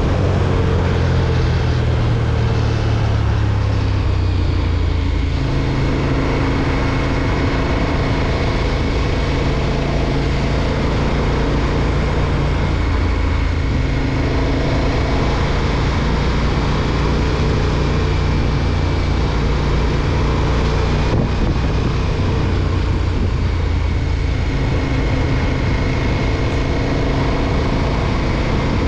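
2020 KTM 1290 Super Duke R's V-twin engine running on the move at fairly steady revs, with its note changing pitch a couple of times, over a constant rush of wind noise on the microphone.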